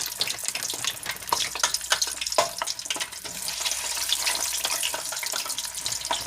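Cauliflower-breaded chicken pieces frying in hot olive oil in a pan: a steady sizzle with many sharp crackling pops of spitting oil.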